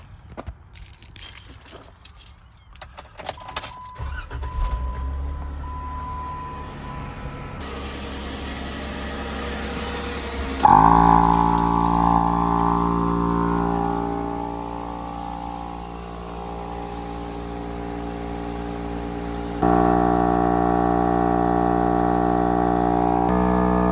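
Keys rattle, then a Jeep Wrangler JK's engine starts and settles to a low idle. About ten seconds in, a 12-volt VEVOR onboard air compressor switches on with a sudden jump in loudness and runs with a steady, pitched motor drone, getting louder in steps near the end.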